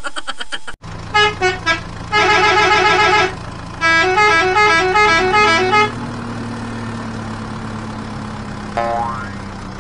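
Electronic vehicle sound effects: two runs of melodic, horn-like honks stepping up and down in pitch, over a steady low engine-like hum that rises slightly in pitch about five seconds in. A short falling tone sounds near the end.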